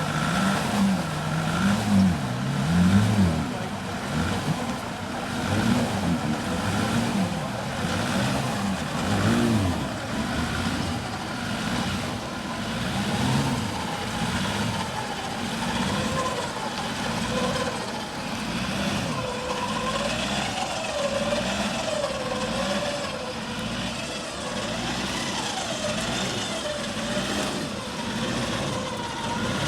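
Off-road 4x4 engine revving unevenly, its pitch rising and falling again and again under load as a stuck vehicle works its way out. It is loudest in the first few seconds.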